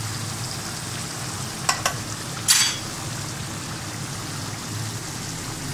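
Beef karahi sizzling steadily in a pan while a slotted spoon stirs it, with two short clicks and a louder brief knock or scrape of the spoon against the pan around two seconds in.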